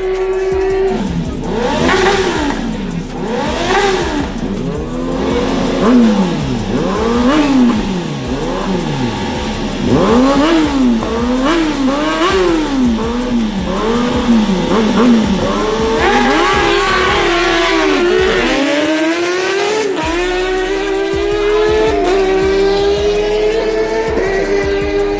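Sport-bike engines on a racetrack, revving up and dropping again and again through gear changes and corners, with a long falling note before settling into a steady high pitch late on.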